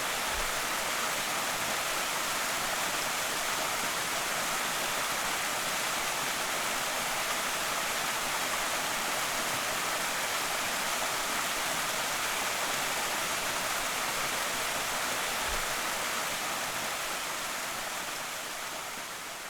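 Slateford Creek waterfall: a steady rush of falling water, fading out over the last few seconds.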